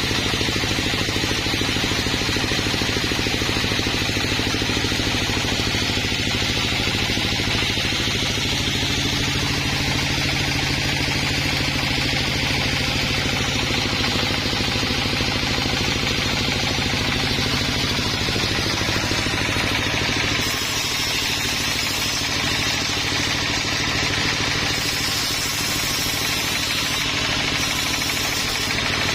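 Sawmill engine running steadily, with a slight drop in the low end about two-thirds of the way through.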